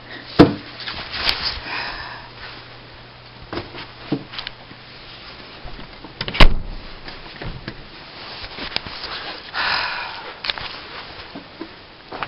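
A door being handled: a run of clunks and knocks, with two sharp loud ones about half a second in and about six and a half seconds in, and short rustling or scraping stretches in between.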